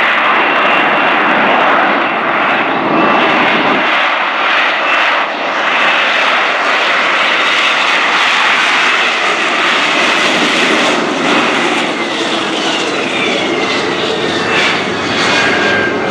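AV-8B Harrier II Plus jet with its Rolls-Royce Pegasus engine running loud and steady at high power: a dense jet roar with a high whine on top, the whine shifting in pitch in the last few seconds.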